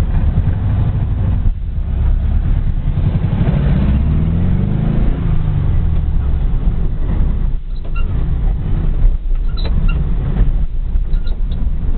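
Air-cooled flat-four engine of a VW Beetle running under way, heard from inside the cabin. It rises in pitch as the car accelerates about four seconds in, then drops back as if for a gear change, with a few sharp clicks near the end.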